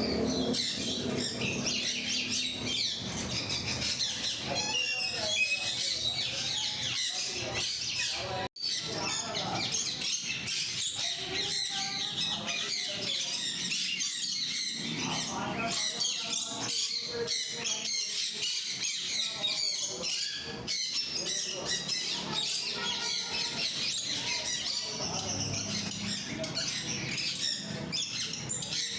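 Many parrots chattering and squawking together in a steady, dense din of high calls, broken by a brief gap about eight seconds in.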